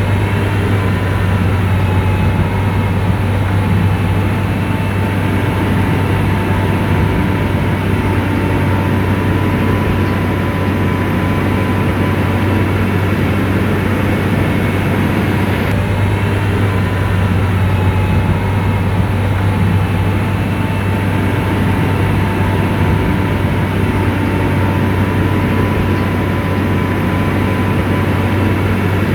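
Diesel engine of an SDLG motor grader running steadily under load, a deep hum with a faint steady whine above it.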